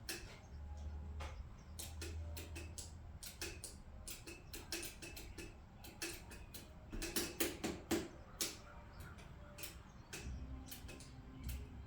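A run of irregular light clicks and taps, bunched about seven to eight seconds in, over a low hum that comes and goes.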